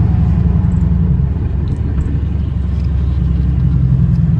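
Straight-piped Dodge Charger R/T's 5.7-litre Hemi V8 running at a steady cruise, a loud, deep exhaust rumble with no change in pitch.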